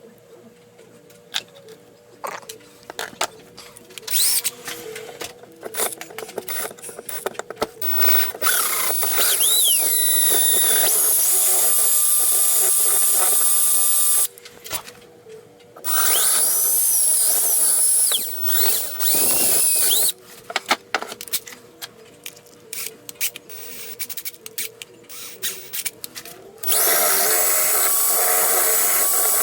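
Handheld power drill run in three bursts of several seconds each, its motor whine rising as it speeds up, after a spell of scattered clicks and tapping from handling tools.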